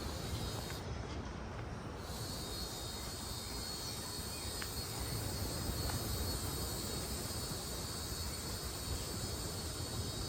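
Steady low rumble of outdoor ambience, with a constant high-pitched insect buzz setting in about two seconds in and holding steady.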